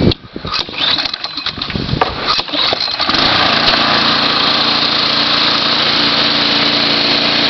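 Toro TimeMaster 30-inch mower's 10-horsepower gas engine being started: about three seconds of clicks and rattles, then the engine catches and settles into a steady run.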